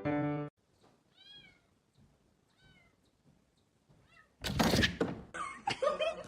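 A cat meowing faintly three times, each call rising and falling, then a loud thump about four and a half seconds in, followed by a person's voice.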